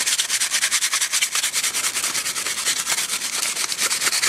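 Crumpled aluminium foil scrubbed back and forth over a chrome exhaust guard wetted with diet cola, in quick, even strokes several a second. This is the foil-and-cola method rubbing surface rust off the chrome.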